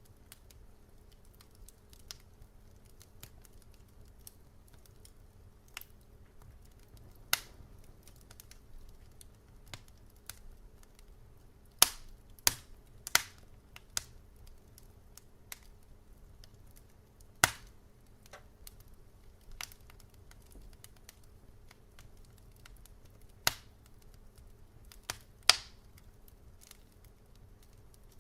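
Wood fire crackling in a fireplace: scattered sharp pops and snaps over a low steady hiss, with a quick cluster of loud pops about twelve seconds in and another near the end.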